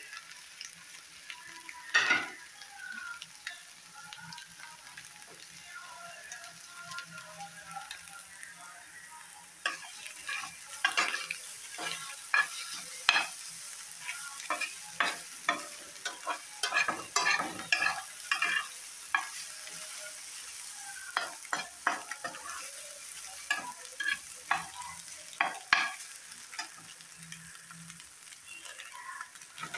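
Egg bhurji sizzling in a hot pan while a spatula stirs and scrapes it: a steady frying hiss under repeated sharp scraping strokes, which come thick and fast from about ten seconds in.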